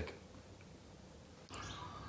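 Quiet room tone with no distinct event. About one and a half seconds in, the background turns slightly louder and carries a faint thin high tone.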